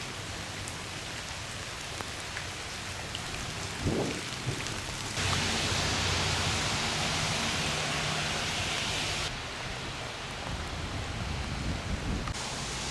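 Steady hiss of rain, louder and brighter for about four seconds in the middle, with a short low thump about four seconds in.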